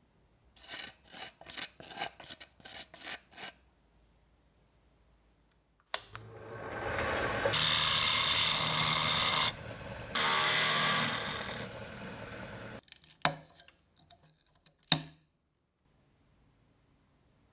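About nine quick rubbing strokes, like hand sanding or filing, then a power tool running for about seven seconds, louder in two stretches, then a few sharp knocks.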